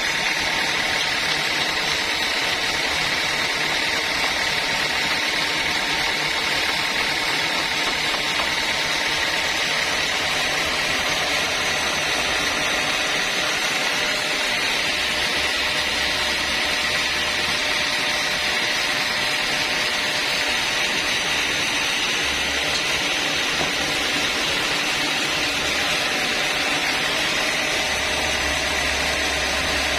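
Sawmill saw running through a log on a long straight cut for planks: a steady, unbroken machine noise with a high hiss that holds level throughout.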